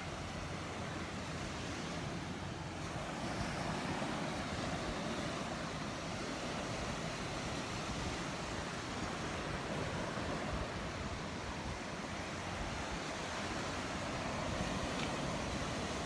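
Gulf of Mexico surf washing steadily onto the beach.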